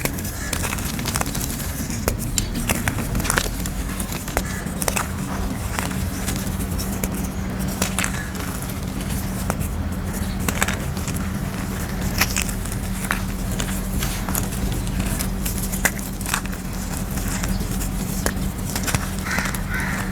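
Moulded grey gym chalk pieces being crushed: a dense, uneven run of sharp crunches and crackles, over a steady low hum.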